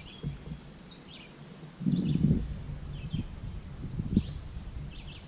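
A bird chirping repeatedly in short, high calls, with a brief low burst of noise about two seconds in.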